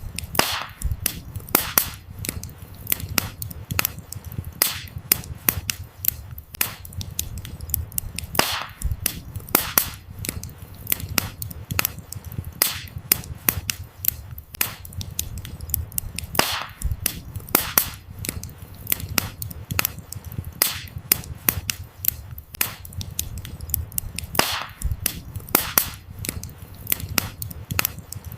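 Wood fire crackling: irregular sharp pops and snaps from burning firewood, a few of them much louder, over a low steady rumble of the flames.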